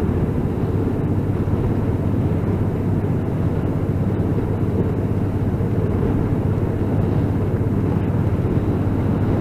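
Motorcycle cruising at a steady speed, heard from inside the rider's helmet: an even engine drone mixed with wind rush, holding the same pitch throughout.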